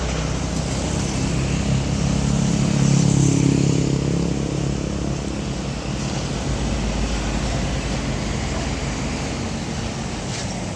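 A heavy truck's engine passing close by, building to its loudest about three seconds in and then fading, over steady road-traffic noise.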